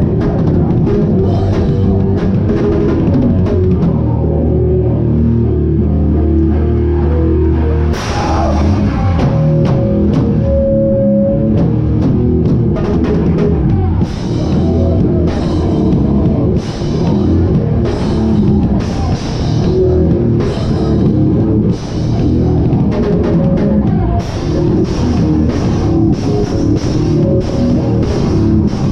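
Hardcore band playing loud live, heard close to the drum kit: drums and cymbals over distorted guitar and bass. A held low note gives way to a cymbal crash and the full band about a third of the way in, then cymbal hits land on a steady beat, growing denser near the end.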